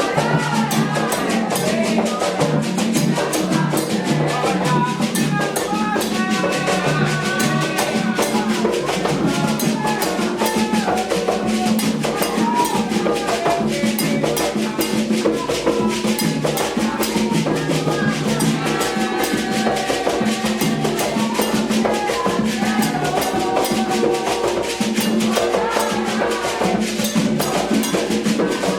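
Candomblé ritual music: hand drums and rattling percussion keeping a fast, steady rhythm under group singing of chants.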